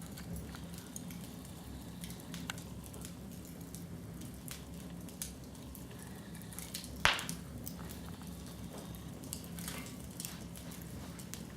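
Wood fire crackling in a fireplace: irregular sharp crackles and pops, with one loud pop about seven seconds in.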